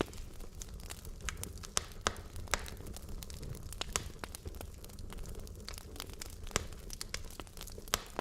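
Wood logs burning in a fireplace, crackling and popping irregularly over a low, steady rumble of flame.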